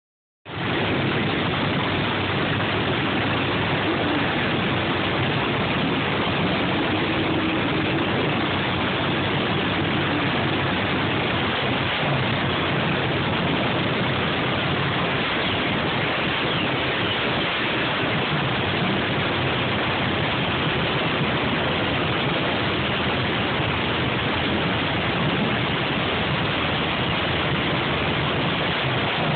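Fuel-injected small-block V8 of a front-engine dragster cackling on a little nitro: a loud, steady, rough engine sound with no revving.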